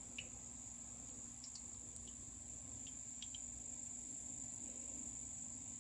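Crickets trilling as one steady high-pitched drone, faint, with a few soft short ticks here and there.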